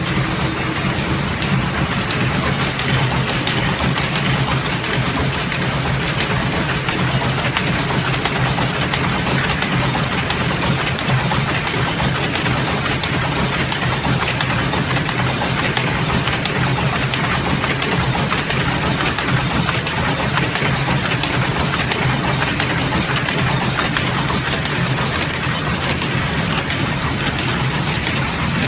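Semi-automatic book sewing machine running steadily: a dense mechanical clatter over a low hum.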